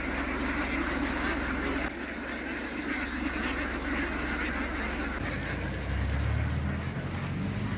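A large flock of farm ducks quacking all at once, a dense unbroken chorus of many birds. A low rumble joins in about five seconds in.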